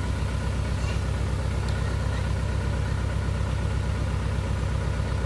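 Truck engine idling steadily with a low, even pulsing, and a few faint bird chirps above it.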